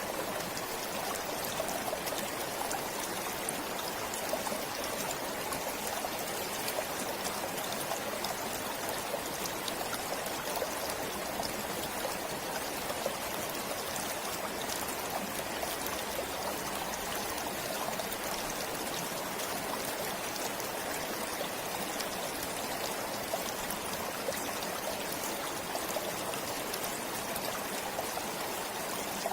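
A stream running steadily, an even rush of water with many small trickles and splashes.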